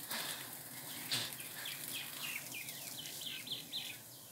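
A bird calling in a quick series of short notes, each dropping in pitch, about four a second. Two sharp clicks sound, one at the start and one about a second in.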